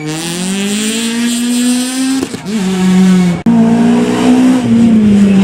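Rally car engine at full throttle, its note rising for about two seconds, then dropping sharply at a lift-off or gear change and holding. There is an abrupt break about three and a half seconds in, after which a steady engine note carries on.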